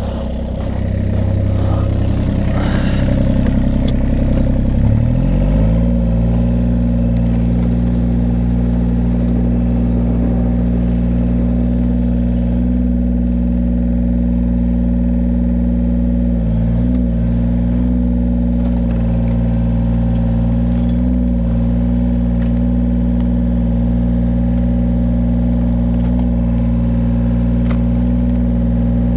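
Diesel engine of a mini excavator speeding up over the first five seconds or so, then running steadily at that higher speed, with some light clatter early on.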